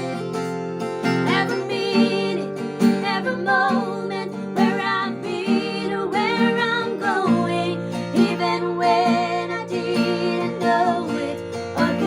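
Female voices singing a praise song with vibrato over a strummed acoustic guitar.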